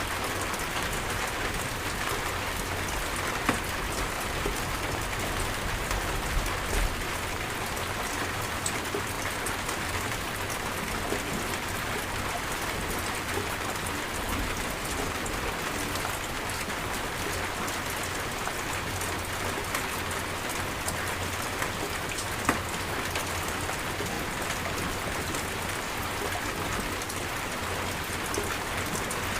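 Heavy steady rain falling on surfaces, a dense even hiss with scattered individual drop hits and a low rumble underneath.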